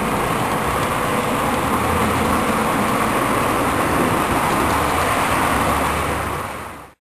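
OO gauge model train running on the track: a steady rolling rail noise that fades and cuts off shortly before the end.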